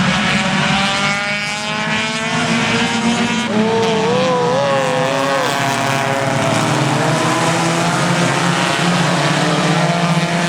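Stock 4 race car engines running at speed on an oval track: a steady, loud engine drone with an engine note rising over the first few seconds. A wavering tone comes in briefly about four seconds in.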